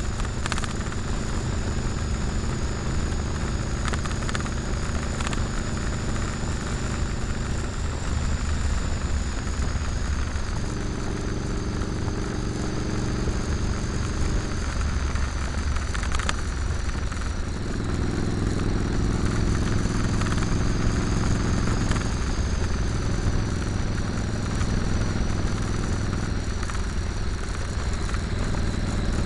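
Motorcycle engine running while riding along a highway, over a steady rush of wind noise. The engine note steps up and down several times, rising about ten seconds in, dropping near fifteen seconds, rising again around eighteen seconds, then settling lower.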